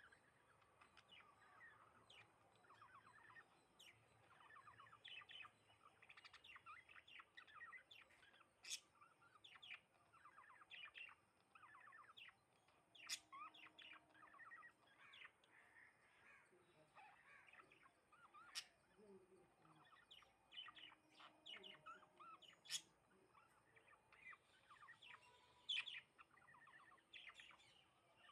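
House sparrows chirping: a steady stream of short chirps and quick runs of repeated notes, with a few sharp high notes.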